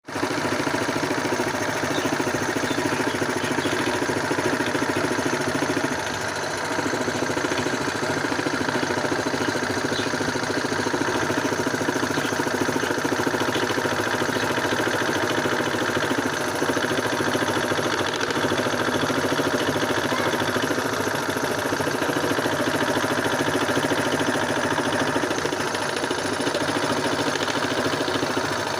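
Homemade scroll saw running steadily, its motor and reciprocating blade making a continuous mechanical drone that starts abruptly, with a brief dip about six seconds in.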